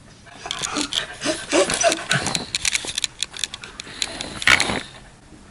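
A dog panting and moving about close by, with many small clicks and a few short high whimpers.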